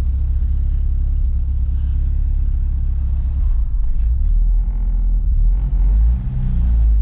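Cabin drone of a turbocharged Honda CR-V with a B20 engine on the move, a steady low rumble of engine and road. The engine note changes from about four seconds in, with a brief dip around six seconds.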